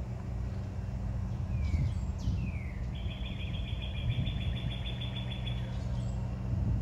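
A songbird gives two quick downslurred whistles, then a rapid, even trill lasting about three seconds, over a steady low hum.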